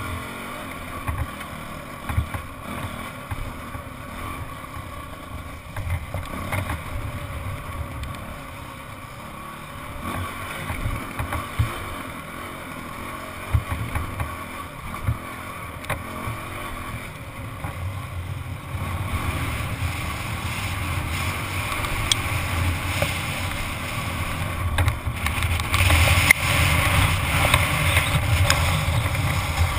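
Dirt bike engine running as the bike rides over bare rock, heard from a helmet camera with wind buffeting the microphone and scattered knocks from the bumps. It grows louder over the last ten seconds or so, with more wind rush.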